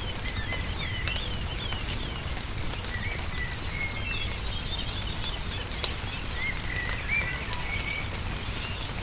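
Small birds chirping in short rising and falling calls, over a wood fire crackling with scattered pops, one louder pop about six seconds in, and a steady low rumble underneath.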